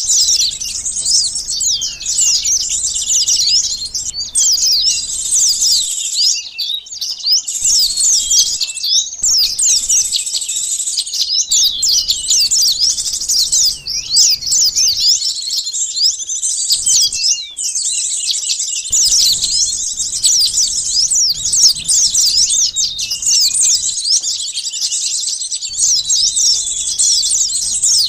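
Sunbird lure calls: a dense, unbroken chatter of rapid, high-pitched chirps and twitters from several small birds, the notes quick and sharply falling.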